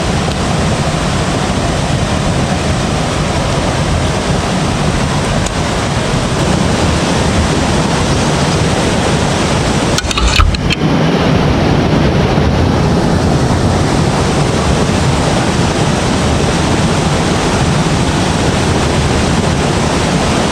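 Steady, loud rushing noise of wind buffeting the microphone, with a brief knock of handling about halfway through.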